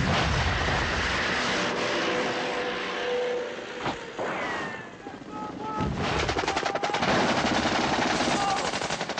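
Battle noise: rapid machine-gun fire from about halfway in, over vehicle noise in the first part.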